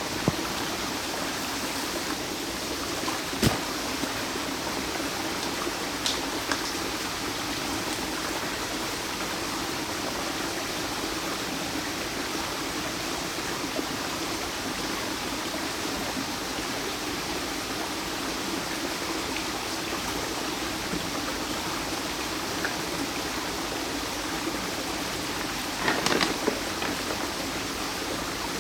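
Fast-flowing stream running high after heavy storm rain: a steady rush of water, with a few brief knocks, the loudest about two seconds before the end.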